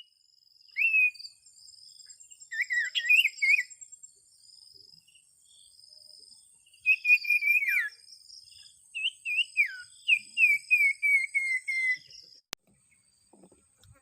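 Sirtu bird calling in clear whistled phrases, with a burst of quick notes a few seconds in and a long run of short descending whistles near the end. A steady high insect drone runs underneath, and a single sharp click sounds near the end.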